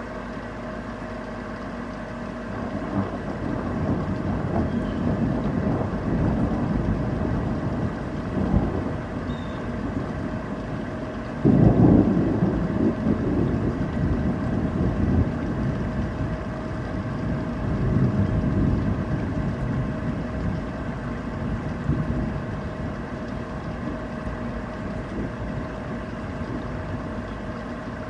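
Thunder in a rainstorm: a low rumble building a few seconds in, a sudden sharper clap about eleven seconds in, then rumbling on in waves for about ten seconds over a steady hiss of rain.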